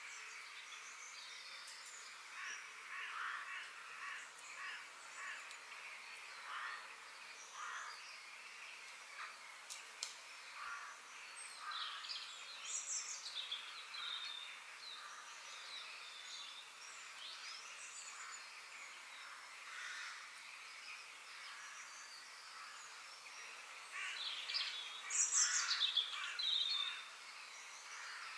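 Several wild songbirds chirping and singing in short, scattered phrases over a faint steady hiss of background noise, with a louder run of song near the end.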